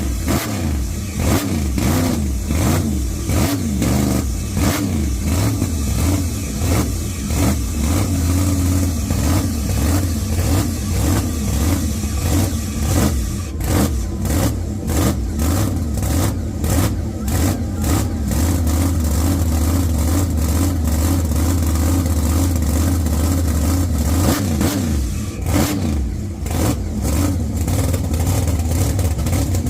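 Supercharged engine of a 1941 Willys gasser running loud on a cold start, its throttle blipped again and again in quick revs, with a steadier stretch partway through.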